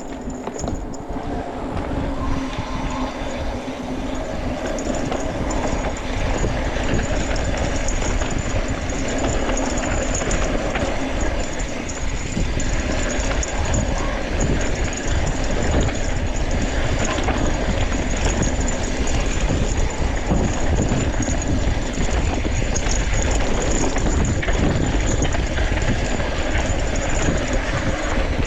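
Electric mountain bike ridden over a rough rocky trail: a steady rumble of tyres on dirt and stone with a dense, irregular rattle of chain and frame.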